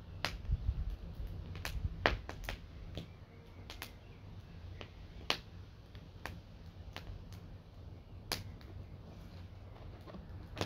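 Wood campfire crackling, with sharp irregular pops and snaps from the burning wood.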